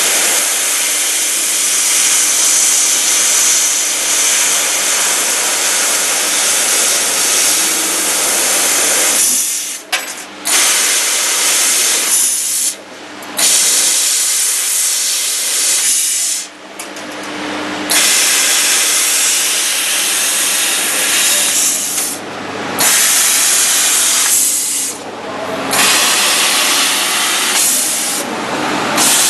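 CNC laser cutter cutting thin sheet metal: a loud, steady hiss of the assist-gas jet at the cutting head, breaking off briefly about six times as the cutting stops and restarts.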